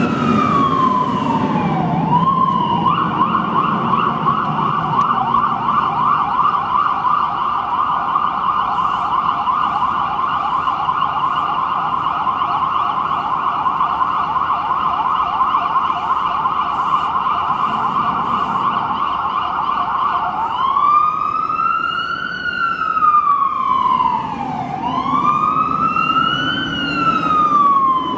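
Fire truck siren sounding loud and continuous: a slow falling wail, then about three seconds in it switches to a rapid yelp, and about twenty seconds in it goes back to a slow rising-and-falling wail, each rise and fall lasting about four seconds.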